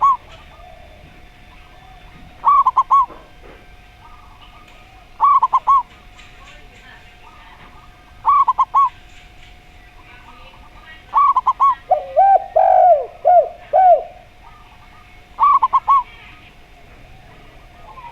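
Zebra dove (perkutut) cooing a short phrase of quick notes about every three seconds, with a derkuku dove cutting in about two-thirds of the way through with a lower run of five or six coos. A faint steady hum runs underneath.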